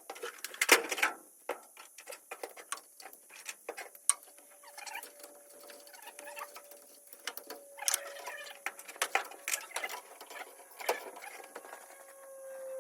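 Hand tools clicking and clinking irregularly on metal fittings while unfastening a carburetor, with a faint steady tone underneath from about a third of the way in.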